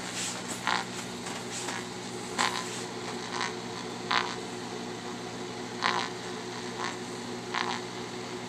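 Grundig G5 shortwave radio hissing with static, broken every second or so by short, irregular crackling bursts of interference from a microwave oven running about a foot away. The microwave's steady low hum sits underneath.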